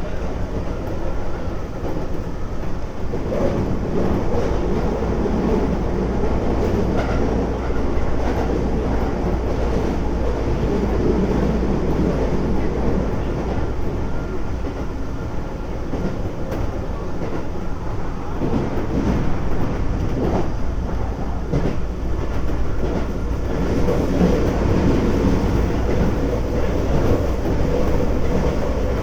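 Keisei 3400 series electric train running, heard from inside the car: a steady rumble with a few rail-joint clacks.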